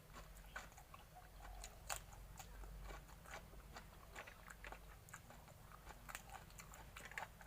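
A person chewing and biting crunchy food close to the microphone, with irregular crisp clicks of the bites.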